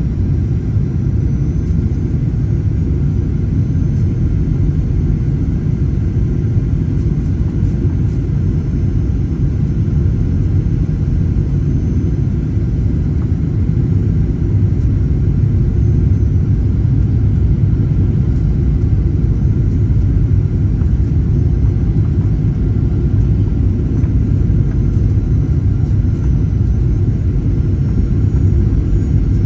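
Cabin noise of a Boeing 737-800: a steady, loud low rumble from its CFM56 engines and airflow, heard from inside the passenger cabin.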